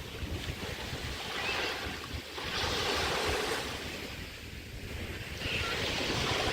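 Small bay waves breaking and washing up on a sand beach: a steady hiss of water with a surge that swells about two and a half seconds in and another building near the end.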